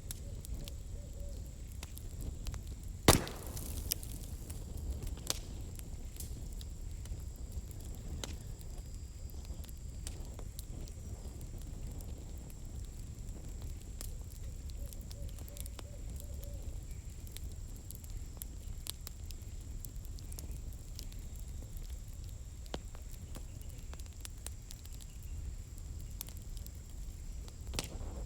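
Campfire of burning firewood crackling: scattered sharp snaps and pops over a low steady rumble, with one loud crack about three seconds in.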